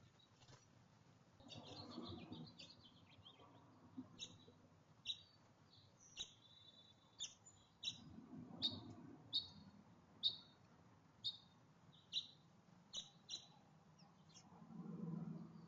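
Small songbird at a feeder giving a string of short, sharp chirps, roughly one or two a second, after a brief quick chatter near the start. A few low, muffled bumps sound in between, the loudest near the end.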